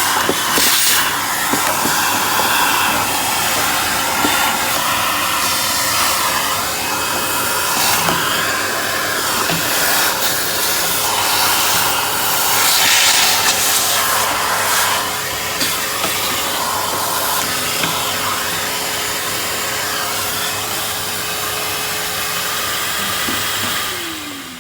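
Vacuum cleaner running steadily, its hose taking dust out from around the refrigerator's compressor and condenser coils. It is switched off near the end, and the motor's hum falls in pitch as it winds down.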